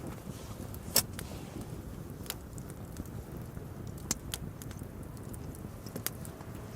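Wood campfire crackling: sharp pops at irregular intervals, the loudest about a second in, over a low steady rumble.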